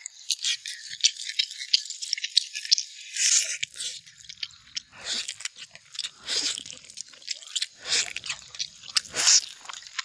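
Close-miked eating: a person chewing and gnawing braised beef-spine meat off the bone, in irregular wet bursts of mouth noise and sharp clicks.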